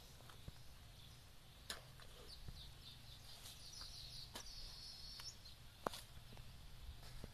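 Faint rural outdoor ambience with a bird chirping: a quick series of high chirps, then a short trill about halfway through. A few scattered soft clicks sound over it.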